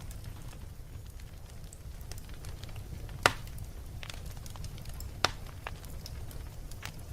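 Wood fire burning in a fireplace: a low steady rumble of flames with scattered crackles and two sharp pops, the louder about three seconds in and another about two seconds later.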